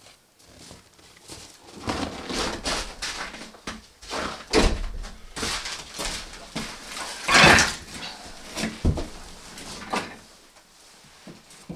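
Irregular rustling, scraping and knocking of things being handled in a small room, with one louder rasping burst about seven seconds in.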